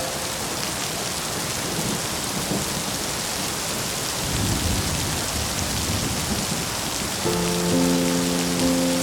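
Steady heavy rain falling on surfaces, with a low rolling thunder rumble swelling in the middle. Soft sustained music chords come in near the end.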